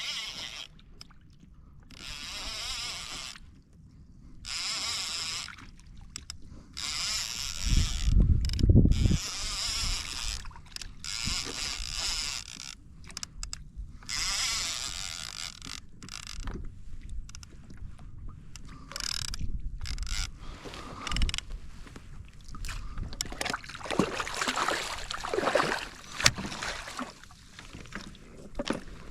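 A fishing reel being wound in repeated bursts of a second or two, with pauses between. A loud low thump comes about eight seconds in, and there are further knocks and splashes near the end.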